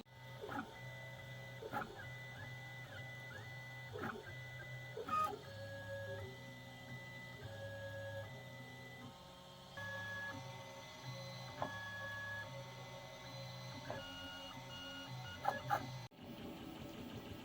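Stepper motors of a 3D printer whining as it prints, steady tones that jump from pitch to pitch with each move, with a few sharp clicks.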